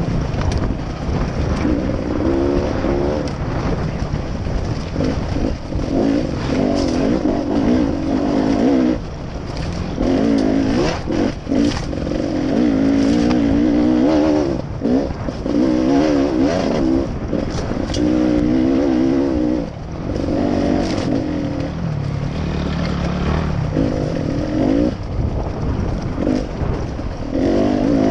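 A small vehicle engine running while being ridden, its pitch wavering up and down with the throttle, with frequent knocks and rattles over it. The engine note drops away briefly about a third of the way in and again around two-thirds through.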